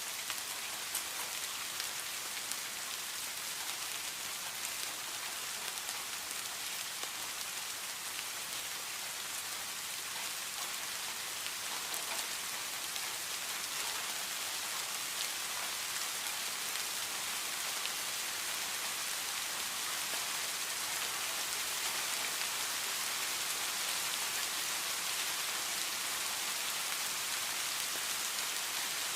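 Steady rain falling on a hard surface, a dense patter of individual drops over an even hiss.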